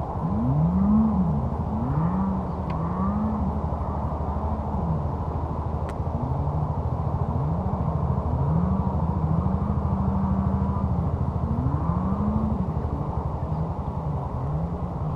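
Engine of an off-road vehicle revving up and falling back over and over, about once a second, over a steady low hum.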